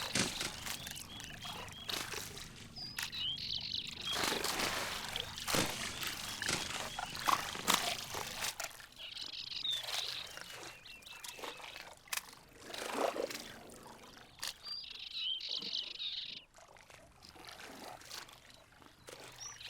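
Red deer stag wallowing in a muddy pool: irregular sloshing and splashing of mud and water, with small birds chirping in short bursts.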